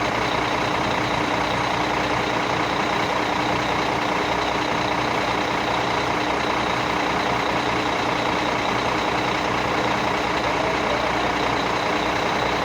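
Steady, unbroken engine noise from heavy vehicles on a highway, with a faint constant hum.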